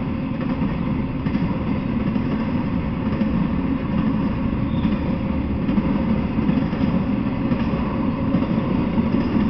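Intermodal freight train rolling past, its loaded flatcars carrying trailers and containers: a steady, low rolling noise of wheels on the rails.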